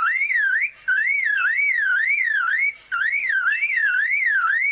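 Superb lyrebird mimicking a car alarm: a whistled tone swooping up and down about two and a half times a second, in three runs with short breaks between them.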